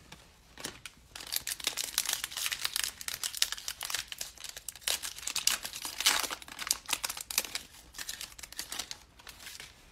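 Foil trading-card pack wrapper being torn open and crinkled by hand, a dense crackle that starts about a second in and dies away just before the end.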